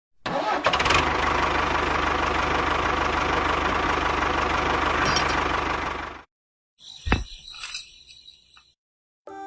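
A toy tractor's electronic engine sound effect, a steady running noise with a low hum lasting about six seconds before it cuts off suddenly. A sharp click and a few short electronic sounds follow.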